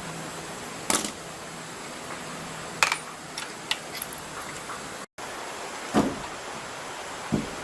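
Metal tools or engine parts being handled, giving scattered sharp metallic clinks and knocks a second or so apart over a steady hiss.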